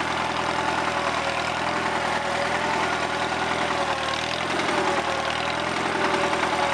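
Allis-Chalmers farm tractor engine running steadily, with a slight shift in its note about four seconds in.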